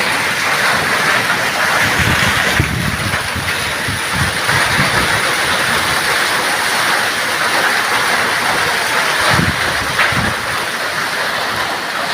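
Heavy rain mixed with falling hailstones, a loud steady hiss with scattered low thumps.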